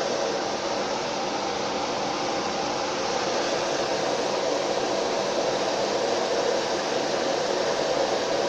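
Two industrial turbine-impeller blower fans in a homemade Niva heater fan housing running at full boost speed on a PWM controller: a steady rush of air with faint steady tones.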